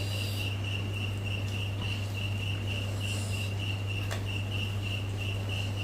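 Cricket chirping in an even, high-pitched pulse, about two to three chirps a second, over a steady low electrical hum, with a couple of faint clicks.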